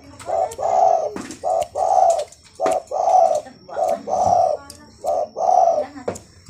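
Zebra dove (perkutut) cooing steadily, repeating phrases of a short coo followed by a longer, rolling coo, about five phrases.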